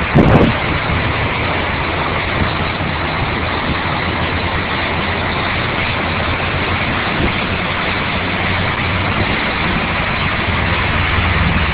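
Car engine running steadily at low road speed, heard from inside the moving car as a low hum under an even hiss of road and weather noise. A couple of low bumps come right at the start.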